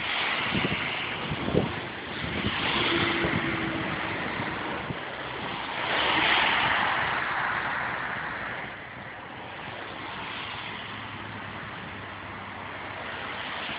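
Strong wind and rain rushing over the microphone, mixed with road traffic hissing past on a wet carriageway; the noise swells twice, about two seconds in and again around six seconds, then eases.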